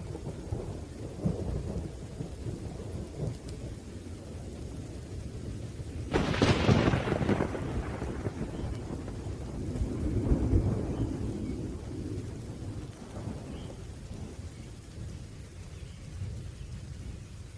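Thunderstorm: steady rain under rolling thunder, with a sharp thunderclap about six seconds in that dies away into rumble, and another roll of thunder a few seconds later.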